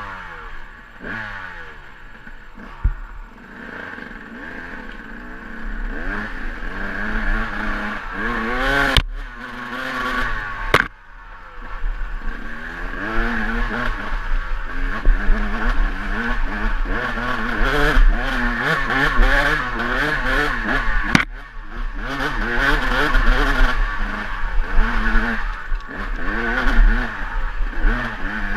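KTM EXC 200 two-stroke dirt bike engine revving up and down over and over, working hard on a steep hill climb, with a few sharp knocks.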